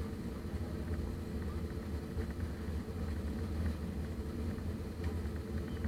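Steady low cabin rumble of an Airbus A320 with its engines running at low power, heard from inside the passenger cabin.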